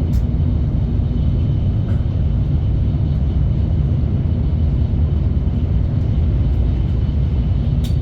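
Steady low rumble of a moving train, holding level with no approach or fade, with a sharp click near the end.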